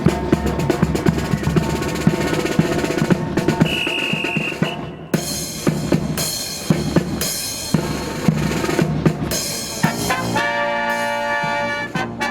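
Marching band opening its fanfare: snare drum roll with bass drum, a short high whistle tone about four seconds in, and then several cymbal crashes. Brass enters with a fanfare about ten seconds in.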